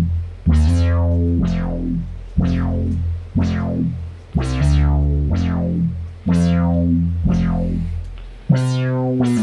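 1974 Minimoog synthesizer played in low bass notes, about one a second, each starting sharply bright and quickly darkening as its filter closes.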